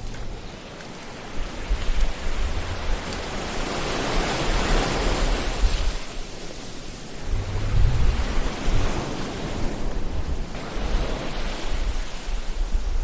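Ocean waves washing onto a shore: a surge swells about four seconds in and ebbs away, with a low rumble of surf underneath.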